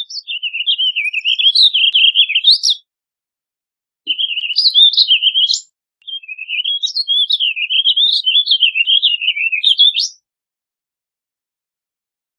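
Warbling vireo singing: three long, rapid warbling phrases that wander up and down in pitch, separated by short pauses.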